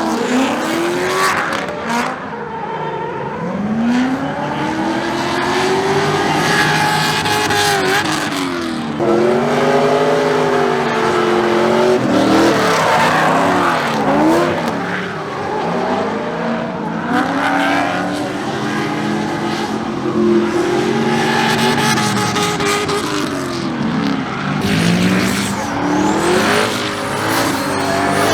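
Drift cars being driven hard, engines revving up and falling back over and over, with tires squealing as they slide.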